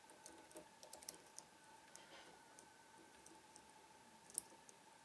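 Faint, scattered small metallic clicks of a lock pick working the pins inside a Trioving 5632 padlock under tension, with one sharper click about four seconds in. A faint steady hum sits underneath.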